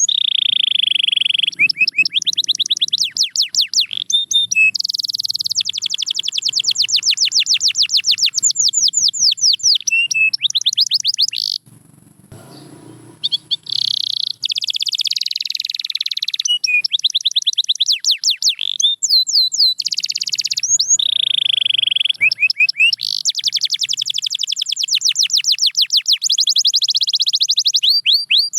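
Domestic canary singing: long, fast trills of rapidly repeated notes, with a short break about twelve seconds in before the song resumes.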